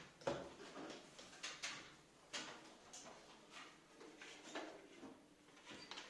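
Scattered light knocks and taps at an uneven pace, about one a second, as small objects are handled.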